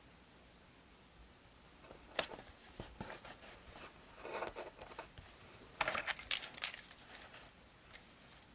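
Stationery being handled at a desk: a sharp click about two seconds in, a short rustle in the middle, then a quick cluster of clicks and taps around six seconds.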